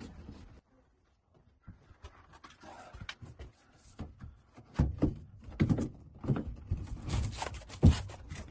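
Irregular knocks, clunks and thuds of hands-on work in a small room, resuming after a brief silence about a second in; the sharpest knocks come about five seconds in and near the end.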